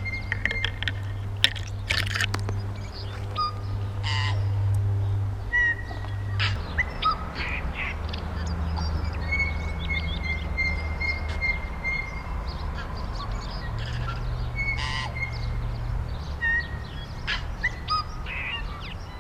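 Birds calling outdoors: many short chirps and a few held whistled notes, over a steady low hum.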